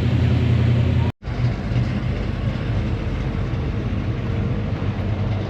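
A vehicle engine idling with a steady low rumble. It drops out completely for a moment about a second in and comes back as a similar steady idle.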